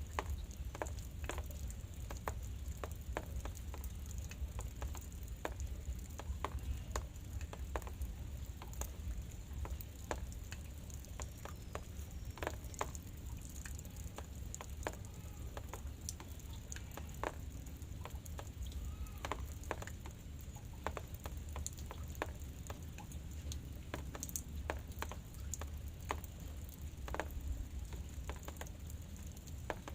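Light drizzle: scattered raindrops ticking irregularly over a soft hiss of rain, with a steady low rumble underneath.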